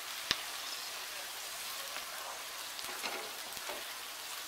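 Mixed vegetables frying in oil in a non-stick wok: a steady sizzle. A wooden spatula stirs them, scraping and tapping the pan, with one sharp tap shortly after the start.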